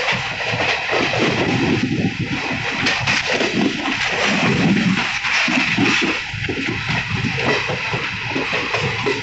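Passenger train running: a steady rushing noise with rattling and many quick, irregular clicks from the wheels and carriage.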